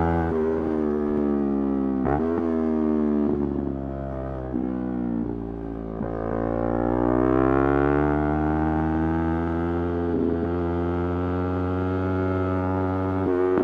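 Yamaha YZF-R3's parallel-twin engine under way. The revs fall for several seconds as the bike slows, with a short rev blip about two seconds in. Near the middle the revs climb again as it accelerates, then hold at a steady cruise.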